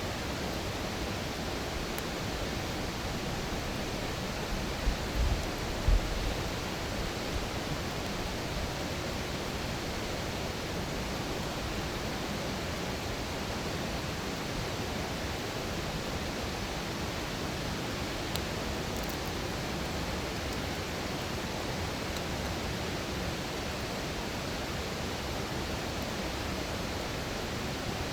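Campfire ambience: a steady rushing hiss with only a few faint crackles, and a few low thumps about five to six seconds in.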